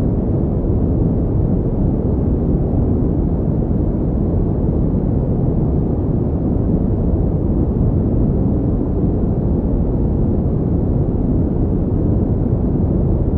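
Steady synthetic pink noise: an even, unbroken rushing hiss, weighted toward the low end, with no changes or events.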